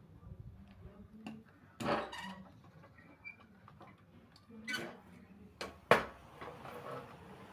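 Tools and bicycle parts being handled during repair work: a few scattered clicks and knocks, the sharpest about six seconds in.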